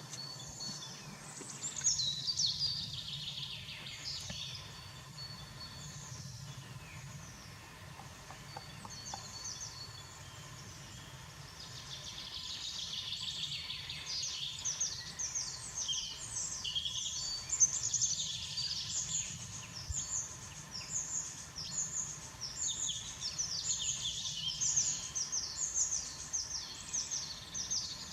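Small songbirds chirping and singing in quick, high, falling notes, sparse at first and thickening into a busy chorus about halfway through, over a faint low hum.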